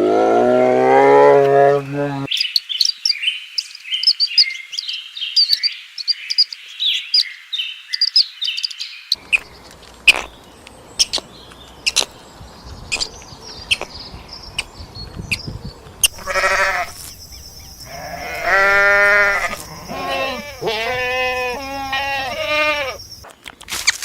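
A bleat at the start, then several seconds of small birds chirping with scattered clicks, then a long run of quavering bleats in the second half.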